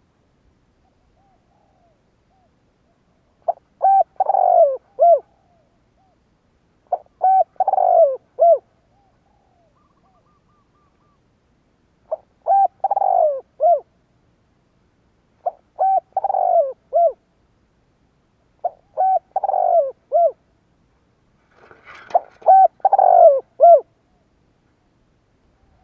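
Spotted dove cooing: six phrases of three or four notes each, repeated every three to four seconds.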